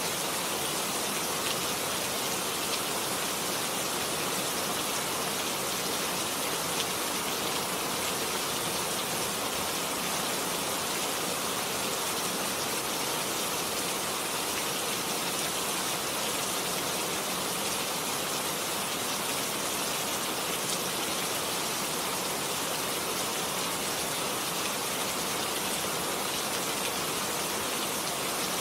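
Steady rain falling, an even hiss with a few single drops ticking out of it, mixed with running water.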